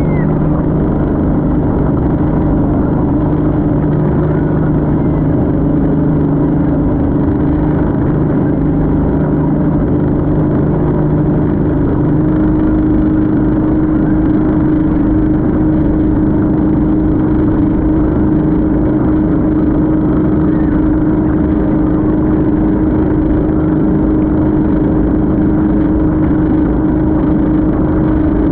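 Motorboat engine running steadily at speed, a loud even drone whose pitch shifts slightly about twelve seconds in.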